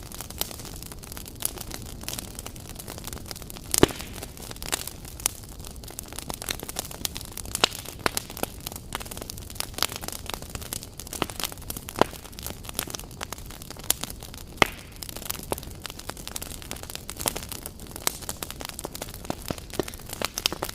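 Wood fire crackling steadily, with many small sharp pops and two louder pops, about four seconds in and again near fifteen seconds in.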